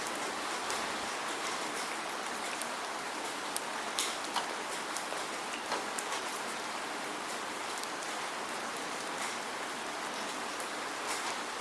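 Steady rain falling, an even hiss with scattered sharp ticks of individual drops hitting a surface, no thunder.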